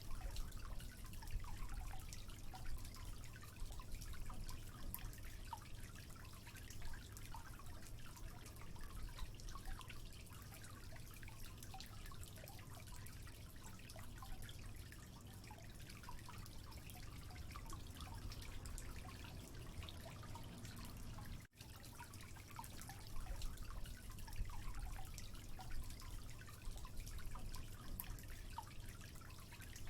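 Water trickling and dripping steadily, with many small scattered drops over a low rumble. It cuts out for an instant about two-thirds of the way through.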